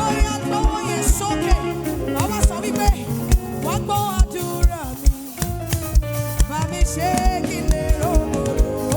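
Upbeat African praise music played live, with a steady kick-drum beat about twice a second under gliding melodic lines.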